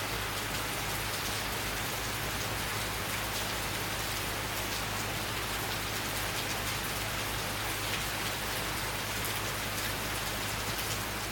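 Steady summer rain falling, a dense hiss of drops with fine pattering ticks.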